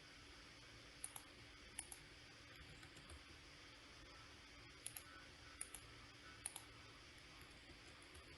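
Faint clicks of a computer mouse, mostly in quick pairs, five or so times, over a low steady room hum.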